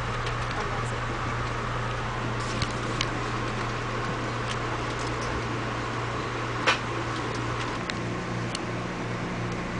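Steady running noise inside a moving Amtrak passenger car: a constant low hum and rumble, with scattered light clicks and one sharper click about seven seconds in.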